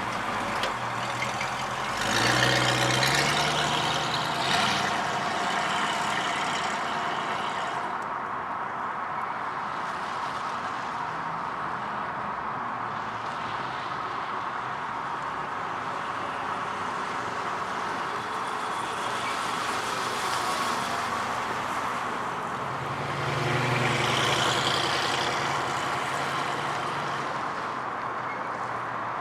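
A 1966 Ford Mustang's 289 V8 running steadily, its note rising and growing louder twice: about two seconds in and again near the end.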